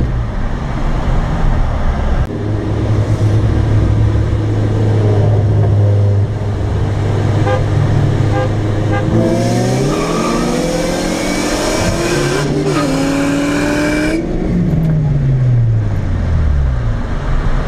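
A 2004 Dodge SRT-4's turbocharged four-cylinder heard from inside the cabin. It cruises steadily, then revs up hard about halfway through, drops for a gear shift and climbs again, and falls away as the throttle is lifted near the end. A loud hiss rides over the hard acceleration.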